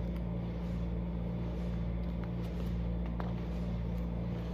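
A steady low hum with a couple of faint clicks.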